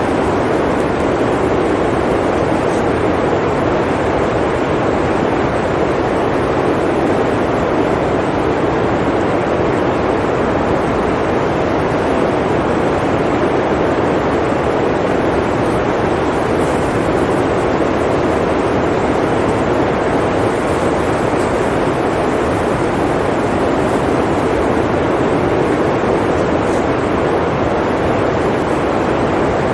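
Blizzard wind blowing steadily: an even rushing noise, deepest in tone rather than hissy, with no gusts, lulls or breaks.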